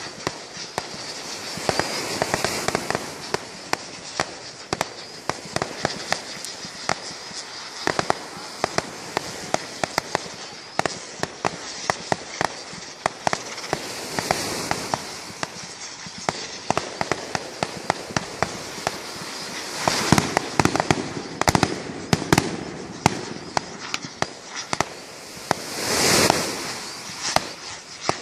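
Consumer fireworks going off in a long rapid run of sharp cracks and pops, with several swells of hissing crackle, the strongest near the end.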